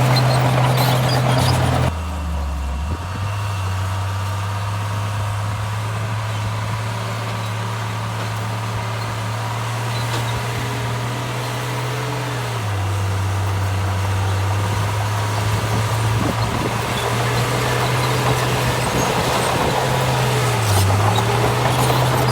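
Heavy diesel engine of earthmoving machinery running steadily. Its pitch drops for a moment about two seconds in, sits lower for a couple of seconds past the middle, and dips briefly near the end.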